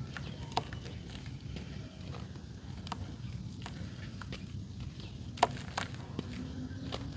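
Dry red dirt clay crunching and cracking in a few sharp, scattered snaps, the loudest about five seconds in, over a steady low rumble.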